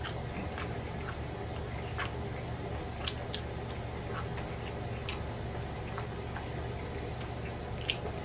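Close-miked chewing and lip smacking of a person eating pork chop: scattered sharp, wet mouth clicks over a steady low hum, the loudest about three seconds in and near the end.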